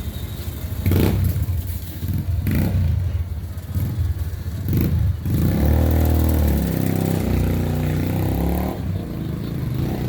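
Dirt bike engine revving: three sharp bursts of throttle, then a longer run in the middle where the engine note climbs and drops in steps as it pulls away.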